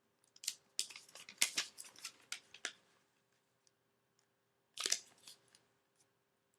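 Sheet of origami paper being folded by hand: a run of crisp crackles and rustles for about two seconds, then a short crinkle about five seconds in.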